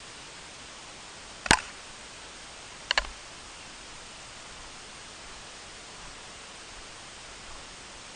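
Steady hiss with a single sharp knock about a second and a half in, then a quick double click about three seconds in.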